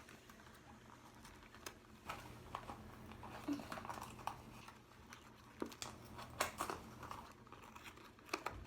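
Faint crinkling and rustling of packaging being handled, with scattered light clicks and taps.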